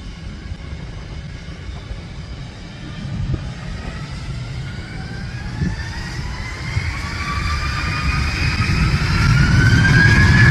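Aircraft engines with a low rumble and a whine that rises in pitch and grows louder over the second half.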